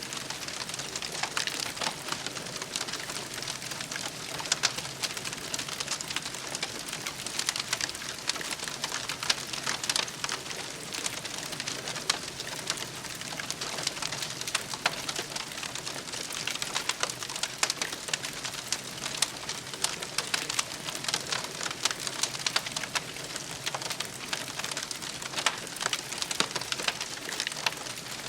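Campfire crackling steadily, a dense, irregular stream of small pops and snaps over a soft hiss.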